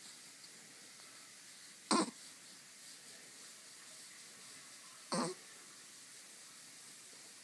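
Two short grunts, about three seconds apart, over faint steady background hiss.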